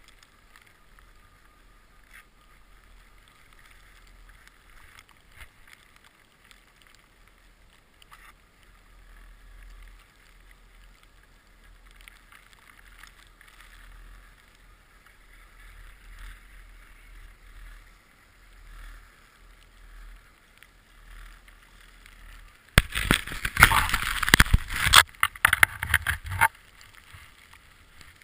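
Skis or a board sliding over snow make a soft, steady hiss with a faint low rumble. About 23 seconds in, a loud, rough scraping and buffeting noise lasts about four seconds, then drops back to the soft hiss.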